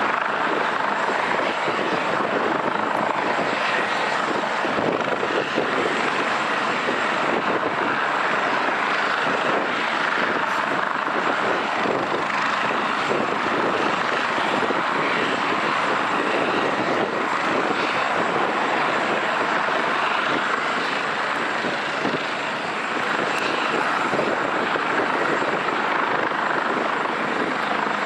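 Helicopter running steadily, its turbine and rotor noise loud and unbroken.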